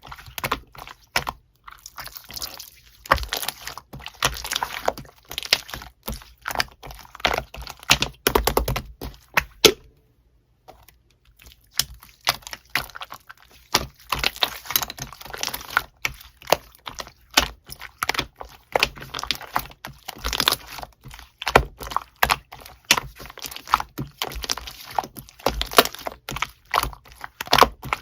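Slime being pressed and worked by hand, giving a fast, irregular run of sticky clicks, pops and crackles, with a short pause about ten seconds in.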